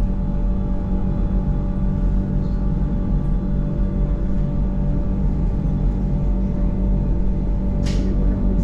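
Mountain train running, a steady low rumble with a constant motor whine on top. A single sharp click sounds near the end.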